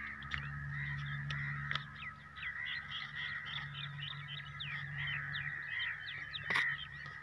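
Small birds chirping steadily in quick, short chirps, over a low steady hum, with one sharp click about six and a half seconds in.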